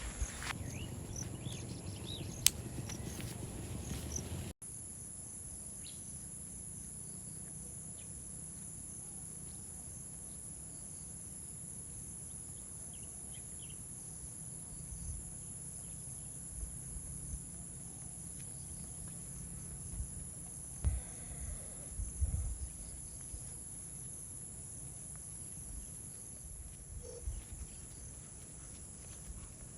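Insects chirring in a steady, high-pitched chorus. Soft rustling at the start and a few dull low thumps later on.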